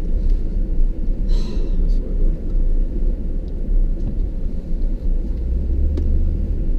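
Steady low rumble of a truck's engine and tyres, heard from inside the cab while driving.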